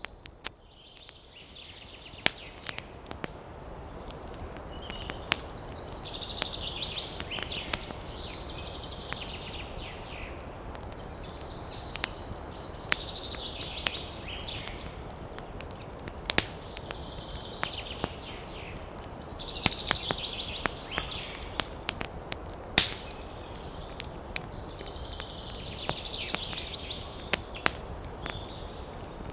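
Campfire crackling with frequent sharp pops over a steady rush of wind through trees. High chirping calls come and go in spells of a few seconds.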